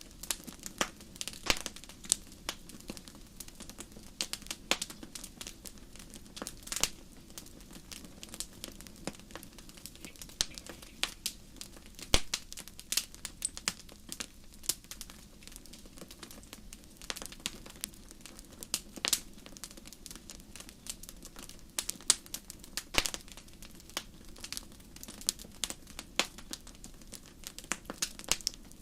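Wood fire burning in a fireplace: irregular sharp crackles and pops, some louder than others, over a low steady sound of the flames.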